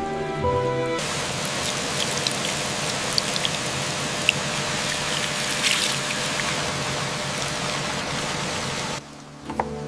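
Steady rain falling, an even hiss with scattered ticks of individual drops. Music fades out about a second in, and a few plucked notes return near the end.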